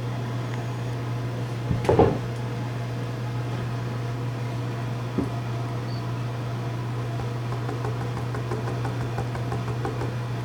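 Steady low hum, with one brief louder sound about two seconds in and a smaller short one about five seconds in.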